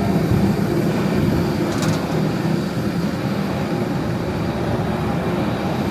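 Steady low rumble and hiss of a moving vehicle heard from inside, with a few faint steady hums running through it.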